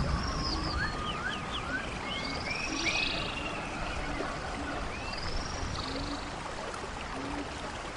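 Birds chirping and whistling, with quick rising and falling calls, over a steady hiss of background noise and short low notes now and then.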